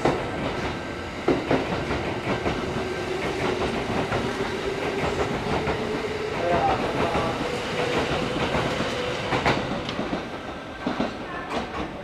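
Kintetsu electric train on the move at a station platform: a motor whine climbing slowly in pitch as it picks up speed, over rolling wheel noise, with a few sharp knocks of wheels over rail joints.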